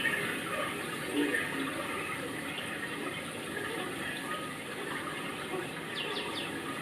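Steady rush of running water, with faint scattered voices and a quick run of bird chirps near the end.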